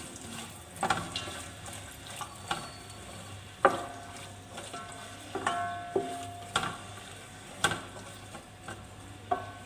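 Julienned carrots sizzling in hot oil in a steel pot while a wooden spatula stirs them, knocking against the pot a dozen or so times, with each knock ringing briefly off the metal.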